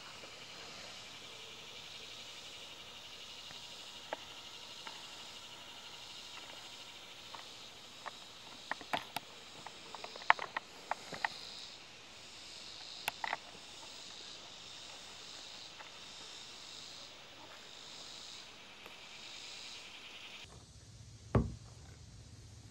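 Steady high-pitched chorus of insects in the trees, with scattered light clicks and snaps around the middle. Near the end the chorus cuts off suddenly, replaced by a low hum and a single thump.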